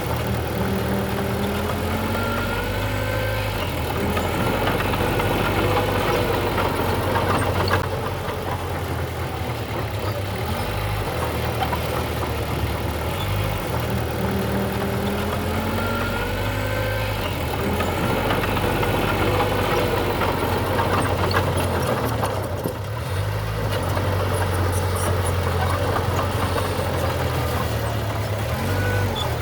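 Diesel engine of a Mitsubishi BD2G bulldozer running steadily, its pitch and loudness rising and falling as the load changes while it pushes soil.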